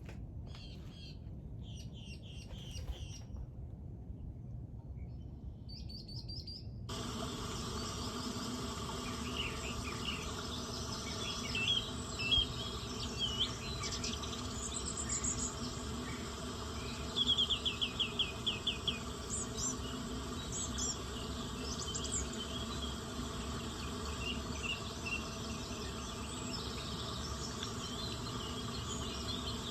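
Nature recording of insects chirping steadily with birds calling over them. The first few seconds hold only a few scattered chirps; about seven seconds in, a fuller insect chorus starts abruptly. About halfway through, a bird gives a quick trill of around eight notes.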